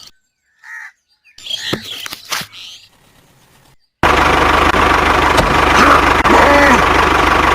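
A few light knocks and clicks, then about four seconds in a small motor starts suddenly and runs loud and steady with a constant whine.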